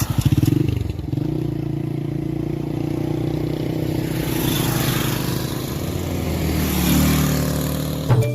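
Motorcycle engine running while riding: its note climbs briefly about half a second in, then settles into a steady drone, growing a little louder near the end.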